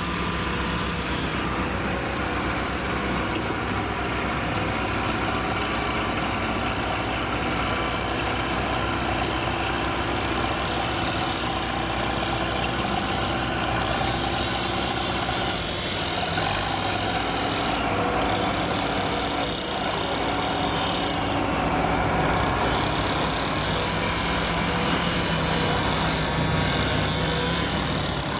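Heavy vehicle engine running steadily at a low, even speed.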